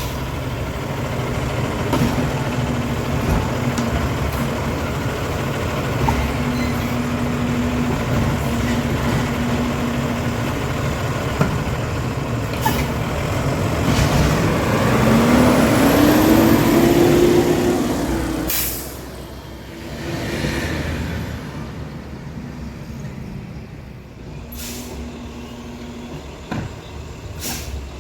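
Freightliner 108SD side-loader garbage truck running, with short hisses of air brakes. About halfway through, the engine note rises for a few seconds along with a high whine, then the truck sound drops to a quieter running level.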